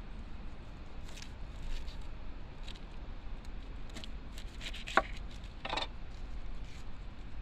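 Knife cutting ingredients on a cutting board for a campfire stew: scattered light cuts and scrapes, with one sharp click about five seconds in.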